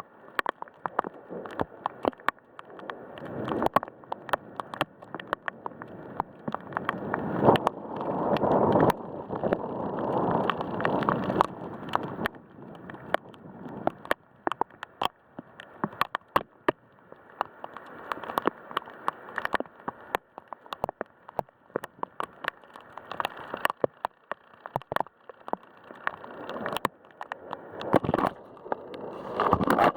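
Heavy thunderstorm rain with wind, drops striking close to the microphone in many sharp taps. The wind and rain swell several times, most strongly about a third of the way in and again near the end.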